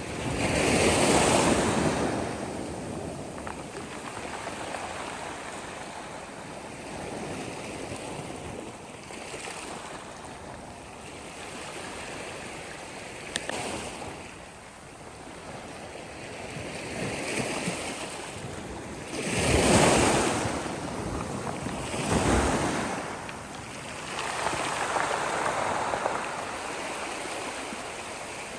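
Sea waves breaking and washing ashore in repeated swells that rise and fade, loudest about a second in and again around twenty seconds in.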